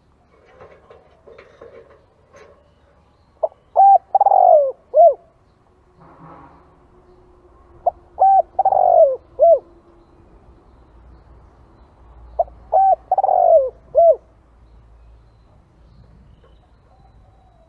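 Spotted dove cooing: three phrases about four seconds apart. Each phrase is a few short coos around one longer, falling coo.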